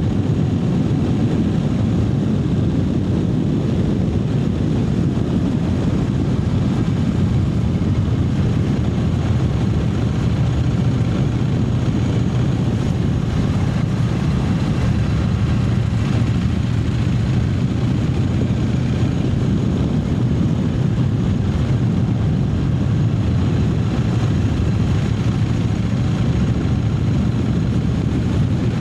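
Triumph Speed Twin 900's 900 cc parallel-twin engine running at a steady cruising pace, its note holding even with no shifts or revving.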